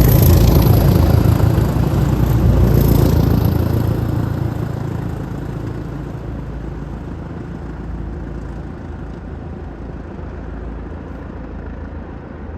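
Train passing, its rumble loudest at the start and dying away over the first four or five seconds into a steady low rumble.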